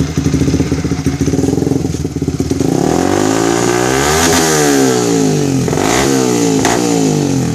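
Yamaha Vixion's single-cylinder four-stroke engine, breathing through an aftermarket high-performance exhaust, idling with an even pulse, then revved up and let fall back, followed by two quick throttle blips near the end.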